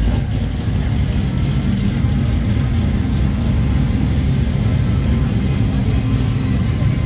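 A vehicle engine running steadily at low revs, a low rumble.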